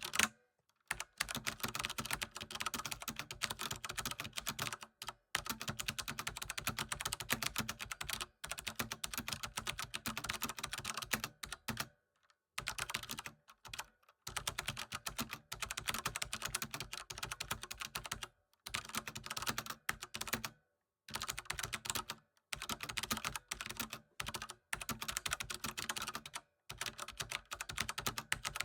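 Computer keyboard typing: rapid, continuous keystroke clicks in bursts of a few seconds, with brief pauses between them.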